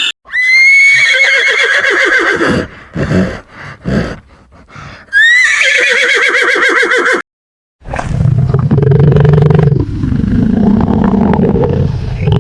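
A horse whinnying twice: loud high neighs that quaver rapidly and fall in pitch, the first trailing off into a fluttering nicker. After a short gap comes a lower, steady animal sound.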